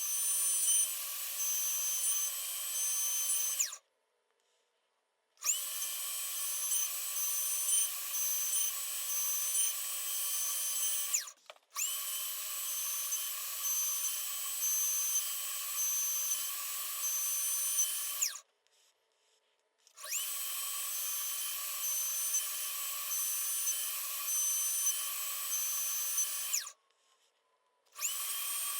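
A small electric power tool with a spinning motor running in repeated runs of several seconds each. Each run spins up quickly with a rising whine, holds a steady high tone and stops abruptly, with brief pauses between. The runs break off about 4, 11, 18 and 27 seconds in, and a new one starts just before the end.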